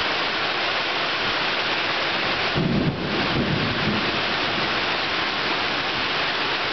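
Heavy rainstorm: rain pouring down steadily, with a brief low rumble of thunder about two and a half to three and a half seconds in.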